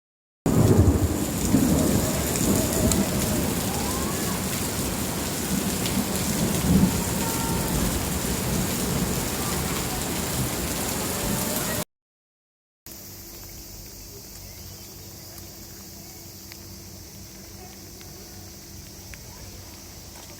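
Heavy downpour of rain, loud and steady, with a deep low rumble through the first part. After a brief cut about twelve seconds in, the rain continues more quietly and evenly.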